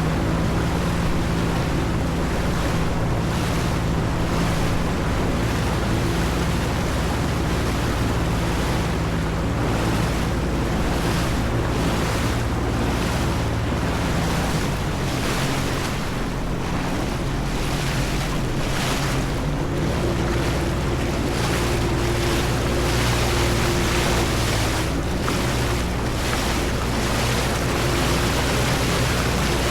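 Jet ski engine running on open water, its pitch shifting about two-thirds of the way through, under a steady rush of water and wind noise on the microphone, with repeated slaps of water.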